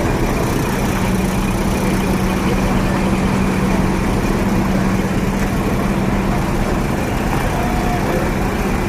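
Heavy truck's diesel engine idling steadily, a continuous low drone with a held hum.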